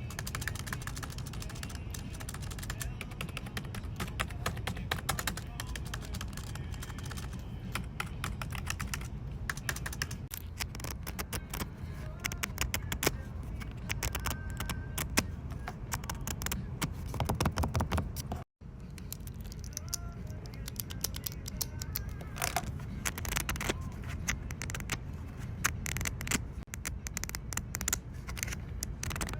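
Keyboard typing: quick, irregular key clicks that go on steadily, with a brief break to silence about two-thirds of the way through.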